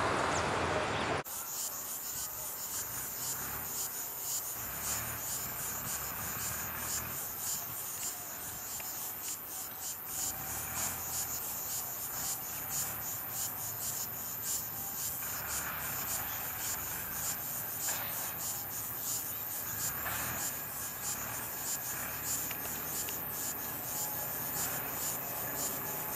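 Crickets chirring steadily in a fast, high-pitched trill. Loud jet aircraft noise cuts off abruptly about a second in.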